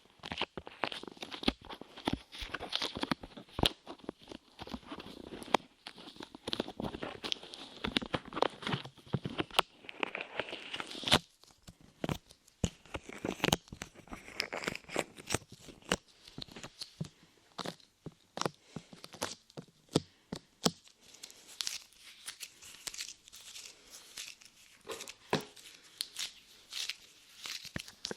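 Light clay squished and pulled on and in the ears of a binaural microphone, giving close sticky crackles and many small clicks. The sound is dense for about the first eleven seconds, then thins to scattered clicks.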